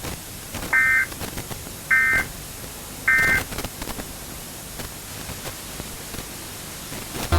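Emergency Alert System end-of-message data tones: three short two-pitch digital screeching bursts, about a second apart, signalling the end of the alert, then a low steady hiss.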